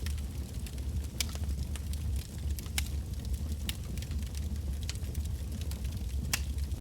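Campfire of burning firewood crackling, with sharp pops every second or so over a steady low rumble of the flames.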